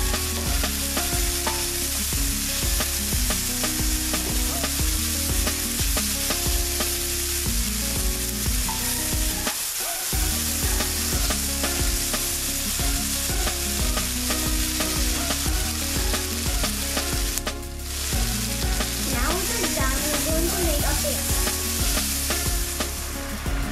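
Chopped onions and tomatoes sizzling in hot oil in a pan while a wooden spatula stirs and scrapes them.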